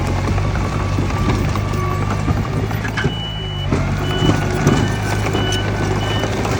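Bulldozer diesel engine running steadily under work, with knocking and clanking from the steel tracks. From about three seconds in, a high beeping alarm sounds in short repeats.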